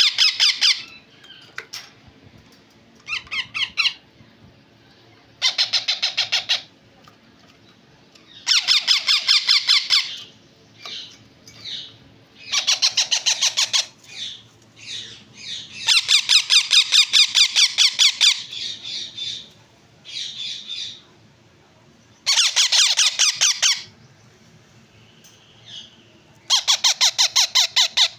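Yellow ring-necked parakeet chicks squawking in repeated bursts of rapid, rasping pulses, each burst lasting one to two seconds, with short pauses between them.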